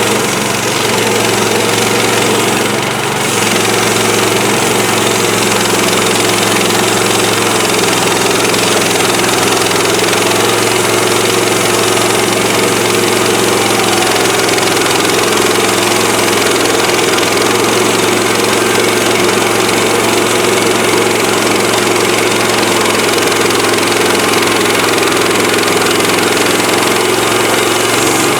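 Woodland Mills HM130MAX portable bandsaw mill's gasoline engine running steadily at speed, with a brief dip about three seconds in.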